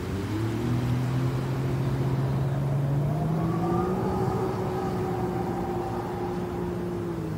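Jet ski engine running, its pitch climbing gradually as it speeds up over the first three seconds or so, then holding steady.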